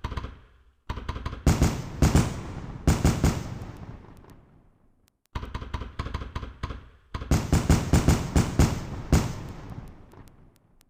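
Fireworks going off in two rapid volleys of sharp bangs and crackles, each fading away over a few seconds.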